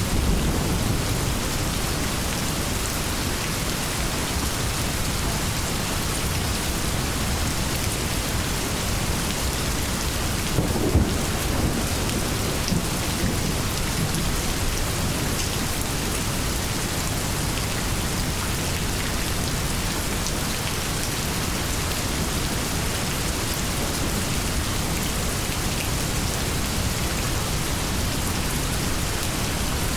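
Steady heavy rain falling on leaves, with rolls of thunder. The loudest rumble of thunder comes near the middle.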